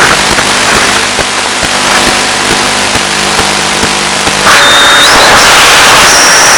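Loud, steady hiss of noise from a long-range FPV plane's analog video-link audio, with a faint low hum underneath. About four and a half seconds in, the hiss grows louder and brighter and a thin, high, steady whistle comes in.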